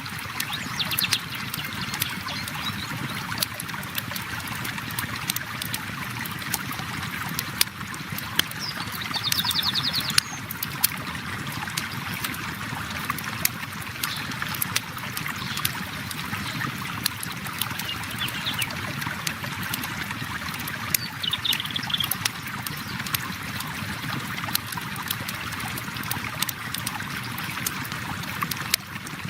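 A river flowing steadily while a campfire crackles with frequent sharp pops. A few short, high-pitched trills come through about a second in, around a third of the way through, and again about two-thirds through.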